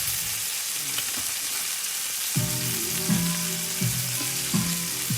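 Food frying in a pan, a steady sizzle throughout. About halfway in, a new song starts playing, with steady bass notes and a regular beat.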